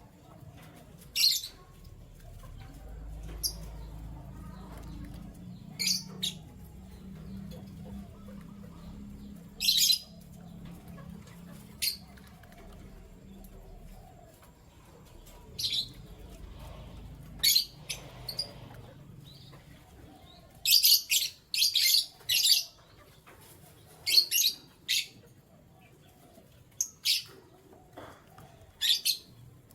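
Canaries giving short, sharp chirps at irregular intervals, coming in a quick run about two-thirds of the way through, over a faint low rumble in the first half.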